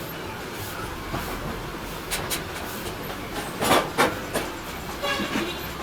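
Scattered sharp clacks and clinks over a steady hum and hiss.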